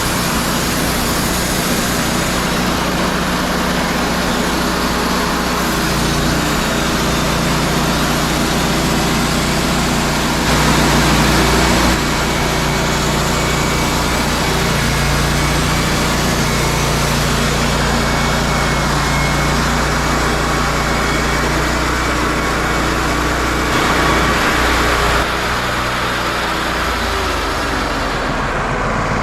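Wood-Mizer LT40 Hydraulic sawmill running steadily under load, its engine a steady drone beneath the noise of the band blade. The engine's pitch drops near the end.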